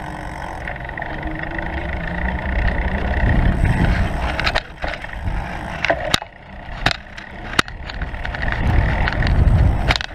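Bicycle riding over rough ground: a steady rumble of tyres and wind on the microphone, with several sharp rattles and clunks from the bike in the second half.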